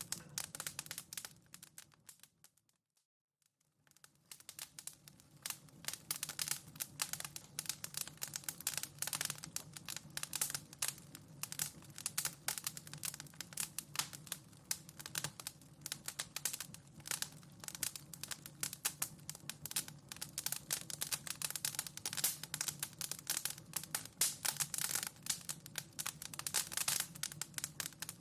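Wood fire crackling in a fireplace: a dense, irregular run of sharp pops and snaps over a low steady rumble. It fades out to near silence about two seconds in and comes back in by about four seconds.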